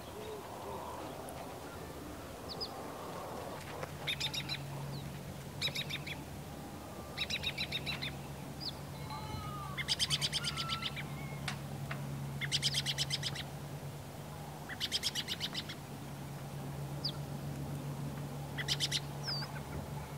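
Bird calls in short, rapid chattering runs, about seven of them spaced a few seconds apart, over a steady low hum.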